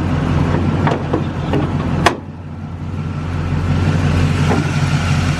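Chevrolet Camaro's upgraded crate V8 with headers idling steadily. A single sharp click about two seconds in is the hood latch being released.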